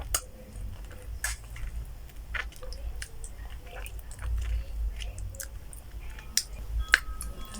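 A person eating close to the microphone: chewing and biting, with scattered sharp clicks and smacks.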